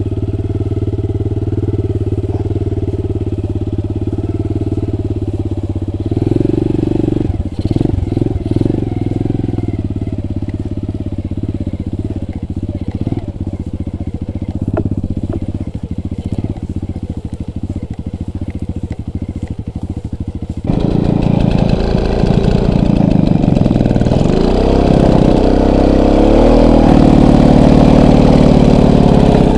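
Motorcycle engine running while riding off-road, steady at first, then rougher and choppier. About two-thirds of the way through it gets louder, with the revs rising and falling again and again.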